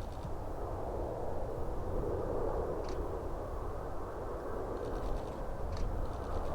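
Boeing jet airliner on approach heard from a distance, a steady engine rumble with a few faint, brief high chirps over it.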